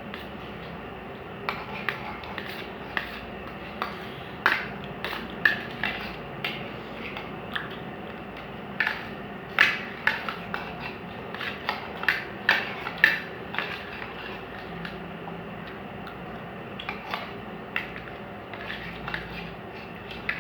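Spoons clinking and scraping against plates as rice pulao is eaten quickly, in irregular clicks with a few sharper clinks, over a steady low hum.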